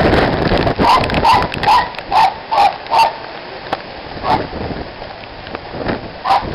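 A dog barking: a quick run of about six barks, then two single barks further apart, over a hiss of rain that dies down within the first second.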